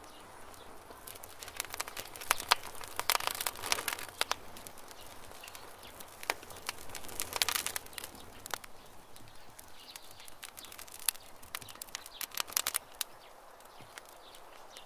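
Campfire crackling: wood snapping in irregular sharp cracks over a soft hiss, coming thickest in bursts about two to four seconds in, again about seven seconds in, and again about twelve seconds in.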